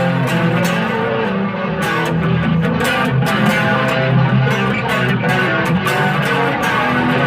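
Electric guitar, a Mexican-made Fender Stratocaster, played through an amp on a clean setting: a continuous run of picked notes and strummed chords.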